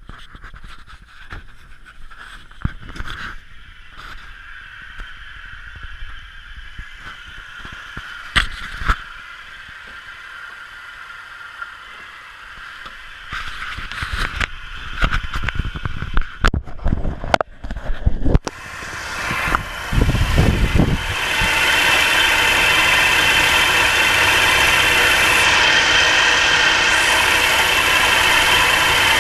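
Nissan March K13's small three-cylinder petrol engine cranking and catching about two-thirds of the way in, after some scattered clicks and knocks, then running steadily at a cold idle. The owner reports that it knocks under the bonnet until it warms up.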